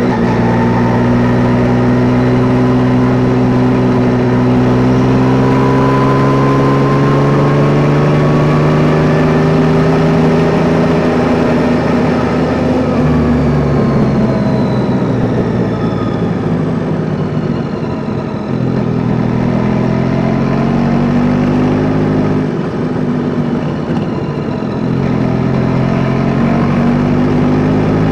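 Yamaha Tracer 9 GT's 890 cc inline-three engine running under way, heard from the rider's seat. Its pitch holds steady for the first half, falls off past the middle as the bike slows, and climbs again near the end.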